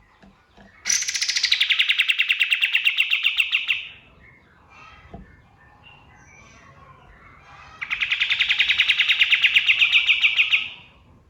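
Kapas tembak songbird singing two long, rapid trills, each about three seconds, with a quieter gap between. The first trill opens on a brief higher note.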